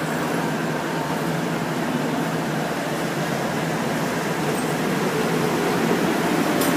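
Passenger coaches of a departing express train rolling past on the rails: a steady rumble of wheels and running gear that grows a little louder near the end.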